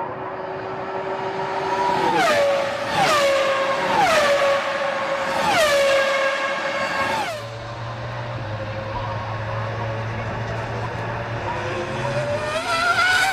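Formula One cars' V10 engines at high revs, the high note falling sharply about five times as cars go by one after another. A lower steady hum follows, then a rising engine note near the end.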